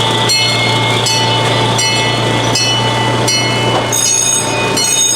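Holidog Express miniature train ride: a steady low hum with high ringing tones that change about every three-quarters of a second.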